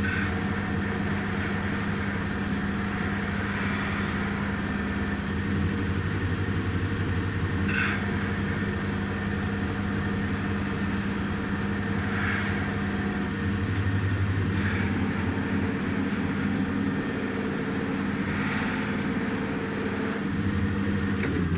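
Electric polishing machine running steadily with a constant motor hum, buffing a wooden veneer panel with wax, with a brief hissing swell every few seconds as the wood is pressed against it. It cuts off at the very end.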